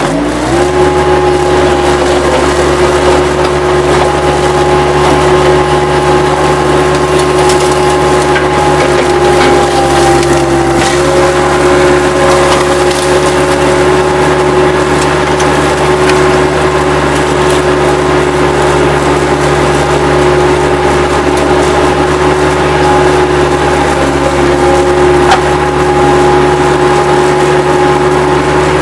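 Bobcat 763 skid-steer loader's diesel engine throttling up from idle just after the start and then running steadily at high revs. Wood debris cracks and splinters now and then under the grapple, with a few sharp snaps.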